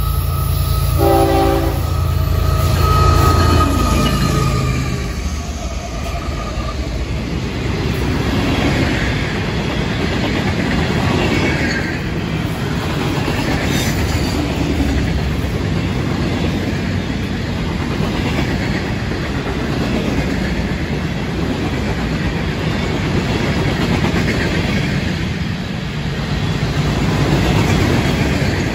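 Florida East Coast Railway freight train passing: the lead GE ES44C4 diesel locomotives rumble by with a horn sounding about a second in. From about six seconds on, the freight cars and rock hoppers roll past with steady rhythmic wheel clatter, with a single clunk midway.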